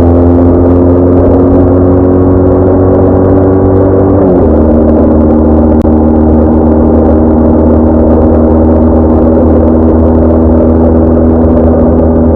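BMW R1200R flat-twin motorcycle engine under way, its pitch climbing steadily as it accelerates, then dropping sharply at an upshift about four seconds in and holding steady at a cruise.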